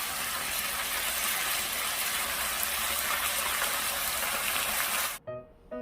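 Steady rushing of water pouring, as from a running kitchen tap, cut off suddenly about five seconds in; piano music starts right after.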